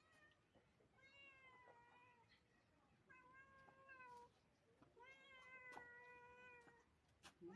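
Cat meowing three times, each a long, drawn-out call held at a fairly steady pitch.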